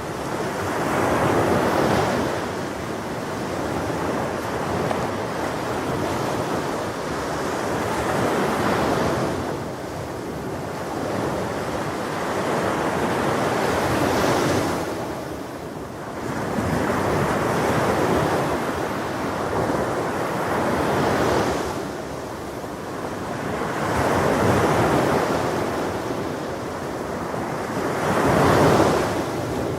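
Ocean surf: waves breaking and washing onto a shore, a continuous rushing noise that swells with each wave about every four seconds, the loudest one near the end.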